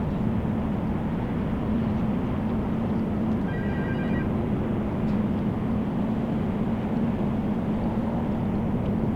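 Steady low drone of the Viking Grace ferry's machinery, mixed with wind noise on the microphone. A short, rapid electronic chirp comes about three and a half seconds in.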